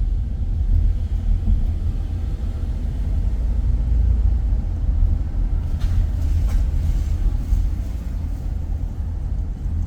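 Steady low rumble of a car driving, road and engine noise, with a few faint ticks about six to seven and a half seconds in.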